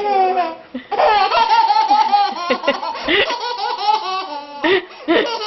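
Loud, high-pitched laughter in repeated short bursts, with a brief pause near the end.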